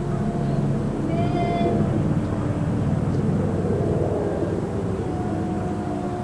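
Faint, drawn-out low yowls of cats in a standoff, held notes coming and going, over a steady low outdoor rumble that swells a little in the middle.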